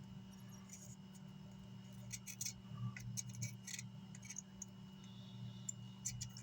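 Scattered small sharp clicks and taps, bunched in the middle and a couple near the end, over a steady low electrical hum.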